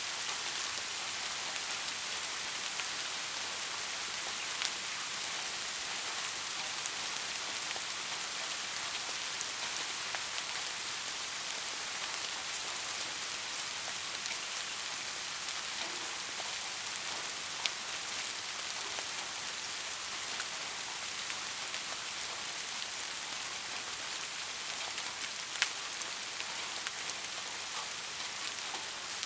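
Steady rain falling, an even hiss, with a few sharper drop clicks here and there, the clearest near the end.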